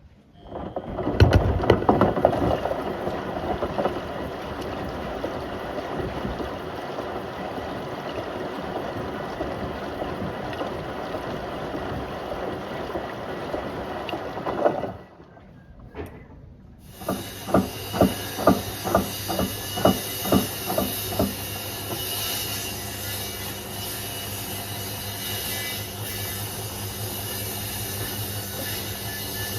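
Beko WM74135 front-loading washing machine running a wash, first with a steady rush of noise. After a brief drop, about ten regular knocks come at roughly two a second as the drum turns with a toaster and kettle inside, followed by a steady running sound with a low hum.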